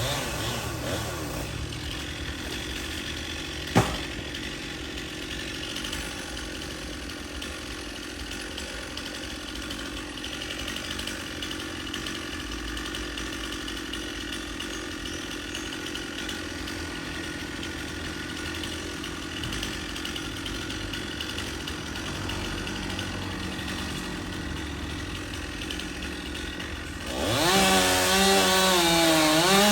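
Two-stroke chainsaw idling steadily, with a single sharp knock about four seconds in. Near the end it revs up loudly, its pitch climbing and wavering.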